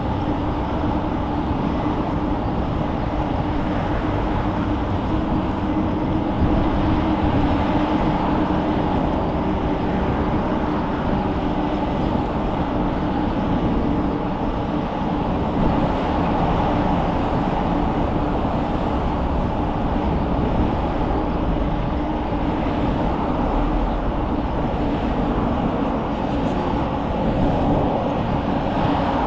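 Steady rolling noise of a bicycle ride: tyres humming on the pavement, with no distinct events.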